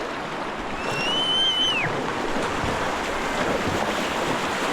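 Steady rush of river water. About a second in, a high whistled note holds for about a second and then drops away.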